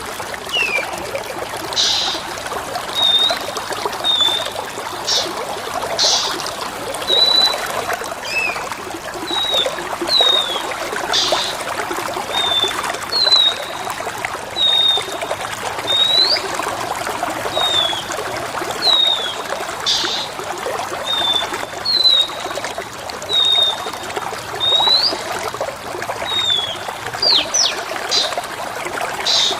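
Water trickling steadily, with a small songbird's short whistled chirps about once a second, each a quick rising or falling note, and a few brief sharp calls among them.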